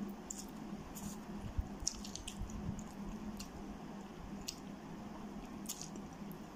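Close-miked eating of instant jjajang ramen noodles with fried egg: wet, squishy chewing with many small mouth clicks scattered through.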